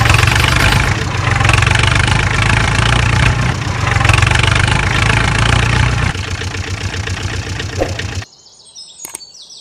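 Vehicle engine running steadily, then settling into an even chugging idle about six seconds in, and cutting off abruptly a couple of seconds later. Faint chirps follow the cut-off.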